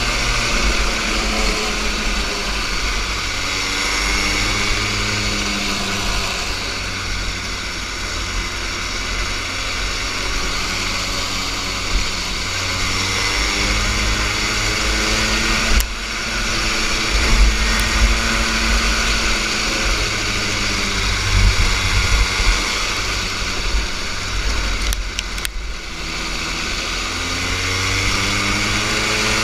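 A junior kart's small engine running hard through an autocross course, its pitch rising and falling as the throttle opens and closes for the corners, over steady wind and road noise. A sharp knock about 16 seconds in.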